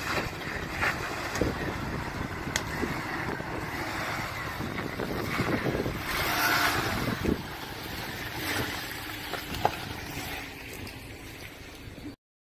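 Off-road vehicle working slowly along a rough trail: steady engine and tyre noise with scattered knocks and clicks, swelling louder for a moment midway, then cutting off suddenly near the end.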